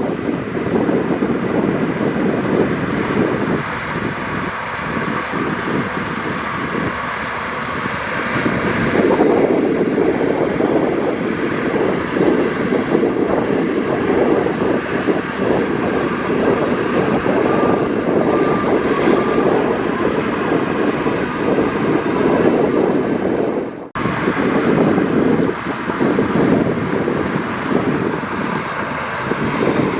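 Heavy diesel earthmoving machinery running steadily at work, with a momentary break in the sound about three-quarters of the way through.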